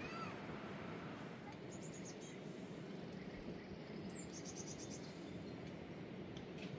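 Small birds chirping over a steady outdoor background hiss: one short chirp right at the start, then two quick high trills of repeated notes about two and four seconds in.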